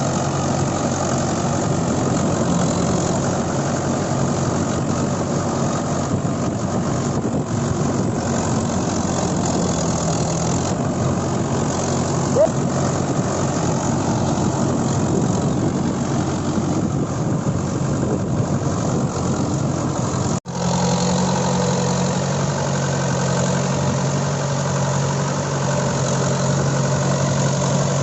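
Tractor diesel engine running steadily. About twenty seconds in the sound cuts out for an instant and comes back as a smoother, even engine hum.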